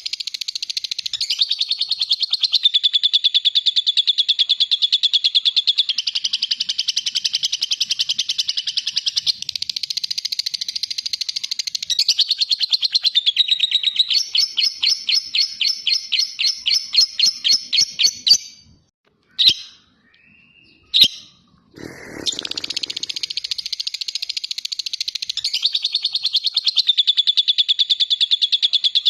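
Lovebird's ngekek: a long, fast, high-pitched chattering trill. About halfway through it turns into a run of separate, evenly spaced chirps and stops for a few seconds with only a couple of short chirps. Then the rapid chatter starts again.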